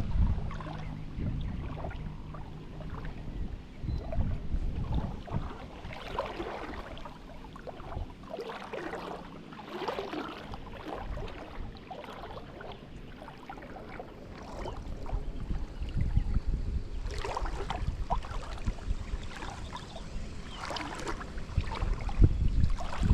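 Outdoor river sound: a steady low rumble with irregular sloshing and splashing of water, busier in two stretches.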